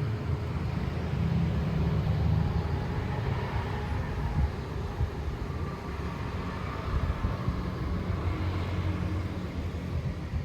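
Wind blowing against the microphone: a steady, uneven low rumble with a fainter rushing hiss above it.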